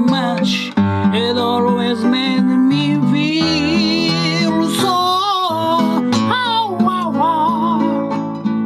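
Acoustic guitar strumming chords with a voice singing a held, wavering melody over it. The final chord rings out near the end.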